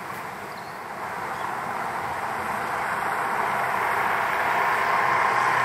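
A passing train's running noise growing steadily louder as it approaches, with a faint steady whine coming in near the end.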